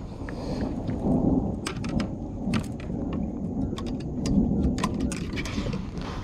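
Thunder rumbling in long, uneven swells, with scattered sharp ticks over it.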